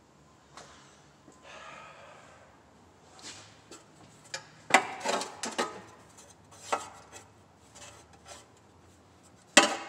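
Hand tools (socket, extension and ratchet) rubbing, clinking and knocking against engine parts while working by feel at a rear spark plug. A soft scraping comes early, then a flurry of sharp metal knocks in the middle and one loud clank near the end.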